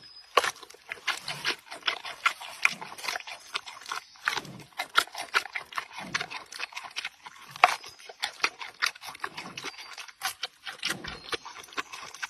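An animal sound made of quick, irregular crackling and crunching clicks.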